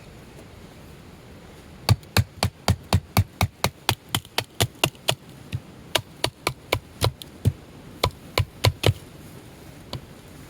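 Batoning firewood: a wooden baton knocking on the spine of a knife driven into a piece of wood, in quick sharp strikes about four a second, with a short pause midway.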